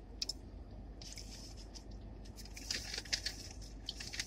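Chewing crispy fried chicken: wet, squishy mouth sounds with scattered crunchy clicks, thickest in the second half.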